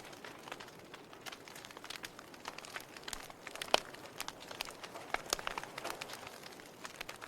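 Log fire crackling: irregular sharp pops and snaps over a soft hiss, with one louder pop about halfway through.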